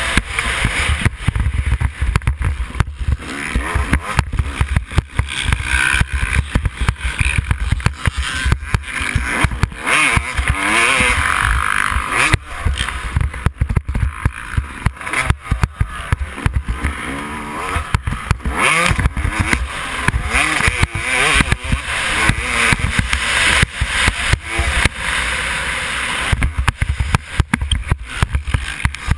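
Yamaha YZ250 two-stroke motocross bike engine revving up and falling back again and again, with heavy wind rumble on the microphone.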